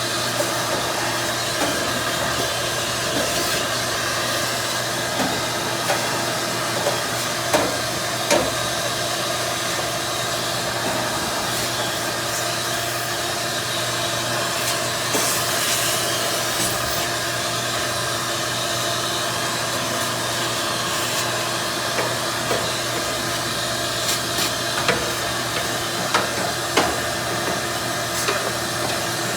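A motor running steadily with a hiss of moving air, with scattered light knocks and clicks.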